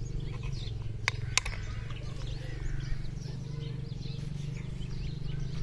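Birds chirping, over a steady low hum, with two sharp clicks about a second in.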